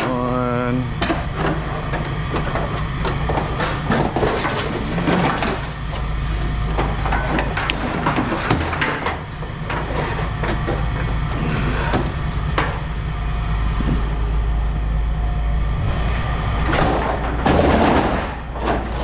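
Pieces of scrap metal knocking and clanking as they are handled and sorted, over a steady low hum, with bits of indistinct talk.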